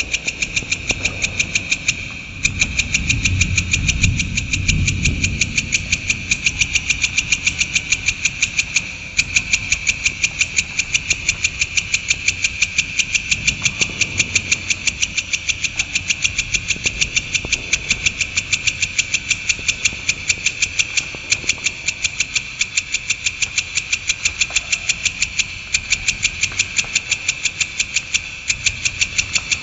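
Cendet (shrike) giving its fast rolling chatter: a long, unbroken run of sharp, high-pitched notes at about four a second.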